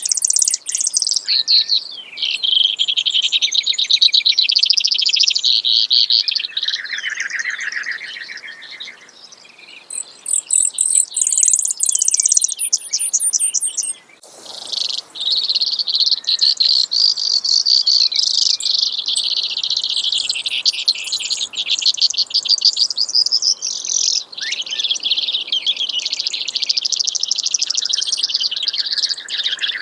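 Brewer's sparrow singing: a long, continuous song of rapid trills, each run of notes shifting to a new pitch every few seconds, with a short break about halfway through.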